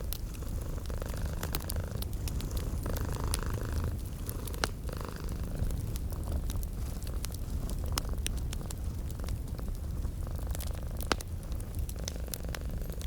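Domestic cat purring steadily, a continuous low rumble, mixed with a wood fire crackling in frequent sharp pops.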